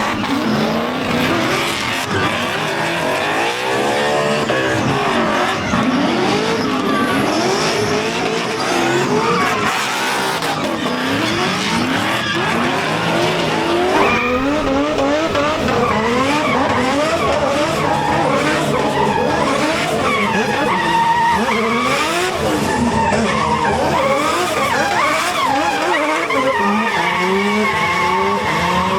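Drift cars sliding, with engines revving up and down over and over and tyres squealing.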